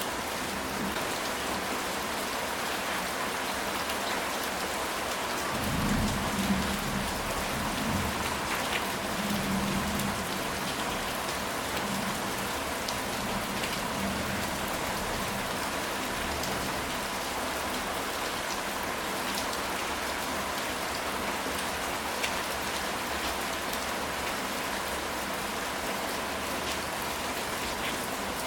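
Steady rain falling on a ceramic tile roof, with many small drop ticks. About six seconds in, a low rumble of distant thunder rises and fades away over several seconds.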